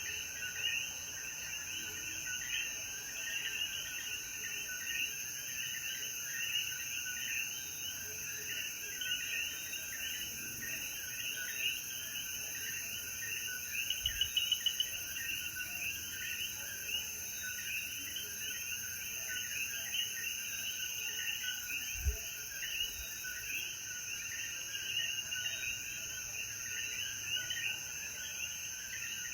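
Night chorus of coquí frogs, many overlapping short rising chirps repeating without pause, over a steady high-pitched insect drone. A couple of soft low thumps come through about halfway and two-thirds of the way in.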